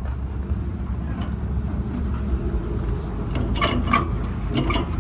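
Heavy truck's diesel engine idling with a steady low rumble, with a few sharp knocks and clanks in the second half.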